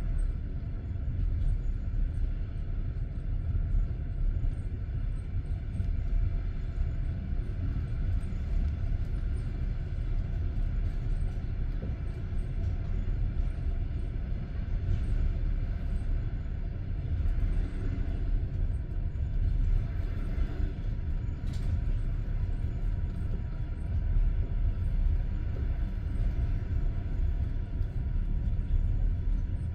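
Passenger train heard from inside a carriage: a steady low rumble with faint steady hums and no clear wheel clatter.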